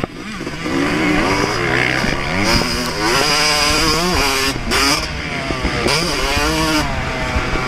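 Yamaha YZ250 two-stroke motocross engine ridden hard, the revs climbing and falling again and again as the throttle is opened and closed through the gears.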